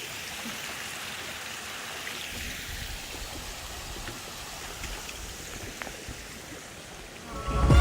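Small waterfall splashing, a steady rush of falling water. A low rumble joins about two seconds in, and loud music cuts in at the very end.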